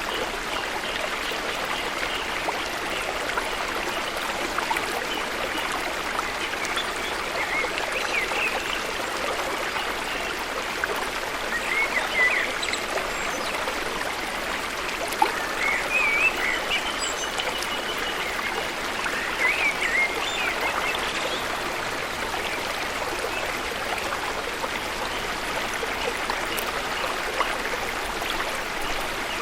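Steady rush of flowing water from a waterfall and its stream, with a few short high chirps over it in the middle stretch.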